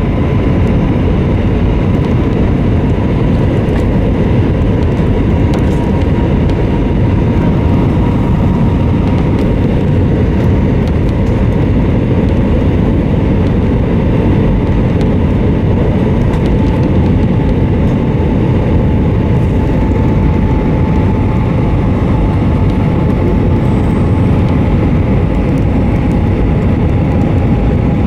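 Airbus A320 cabin noise in flight: a steady, loud rush of engine and airflow noise, with a faint engine whine that slowly falls in pitch.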